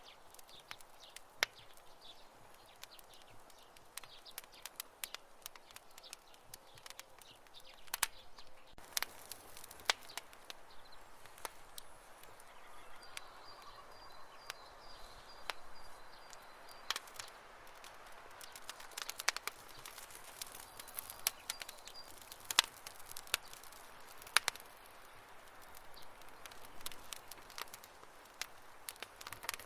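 Campfire crackling: irregular sharp pops and snaps of burning wood over a soft steady hiss.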